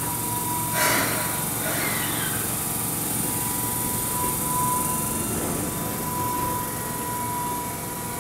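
Keihan 7000 series electric train standing at a station platform, its equipment giving a steady high whine over a wide hum. There is a brief hiss about a second in.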